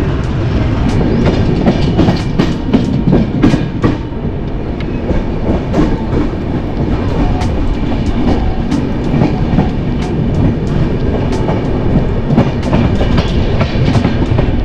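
Indian Railways express train coaches running on the track, heard from an open coach door: a steady wheel-on-rail rumble with irregular clicks and clacks as the wheels pass over rail joints and points.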